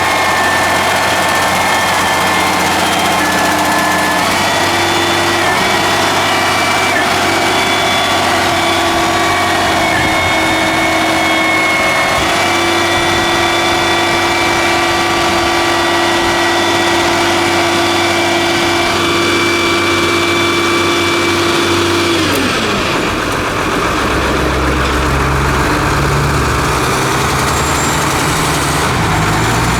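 Ford L8000 front-load garbage truck running, its Loadmaster hydraulic pump whining in steady tones over the diesel engine. About two-thirds of the way through, the whine drops in pitch and fades out, leaving a lower engine note that rises and falls.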